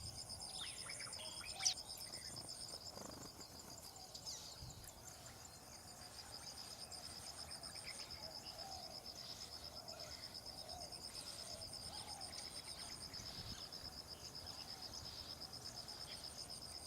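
A steady, fast-pulsing insect trill, with a second, higher-pitched insect trill that starts and stops several times. A few short, high bird chirps and a sharp click come in the first two seconds.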